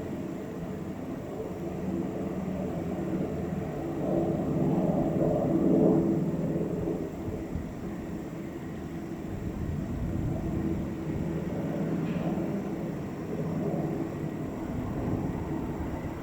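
Two military helicopters coming in to land, a steady low rotor and engine rumble with a droning hum, swelling loudest about five seconds in and then easing.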